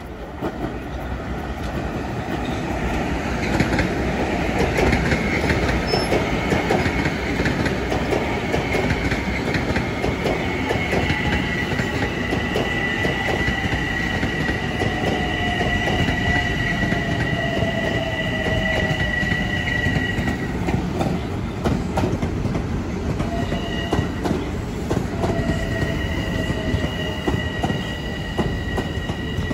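Long Island Rail Road commuter train rolling past: a rumble of wheels on rail that builds over the first few seconds, with clicks from the rail joints. High steady wheel squeal sets in about ten seconds in, breaks off near twenty seconds and returns a few seconds later.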